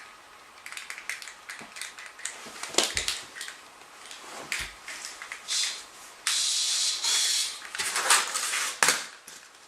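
Smooth fox terrier chewing and worrying a plastic toy spider: scattered crunches, clicks and clatters with a couple of dull knocks. About six seconds in, a steady hiss lasts about a second and a half.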